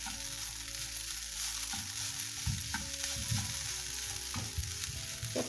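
Grated papaya thoran sizzling in a hot nonstick pan while a spatula stirs and scrapes through it, with soft irregular knocks of the spatula against the pan from about two seconds in.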